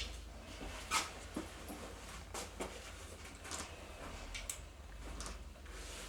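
A dog moving about a small room during a scent search: faint, scattered soft clicks and rustles, a little louder about a second in.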